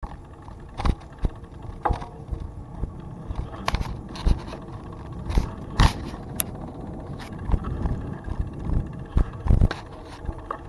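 A bicycle being ridden on a trail: steady tyre rumble with frequent irregular rattles and knocks from the bike.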